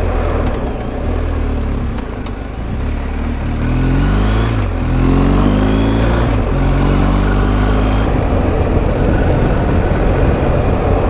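BMW R1250 GS Adventure's boxer-twin engine on the move, easing off a couple of seconds in, then revving up through a gear change as the bike accelerates and settling to a steady cruise, with wind noise.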